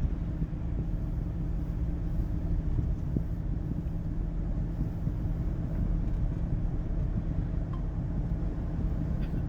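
Steady low rumble of a car driving, engine and road noise heard from inside the taxi's cabin.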